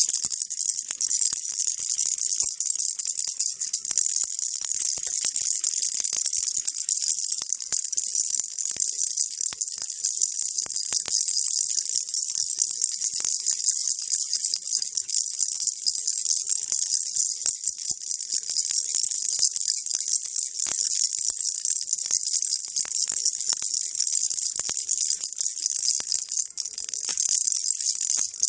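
Baby rattle shaken steadily without pause: a dense, even, high rattling.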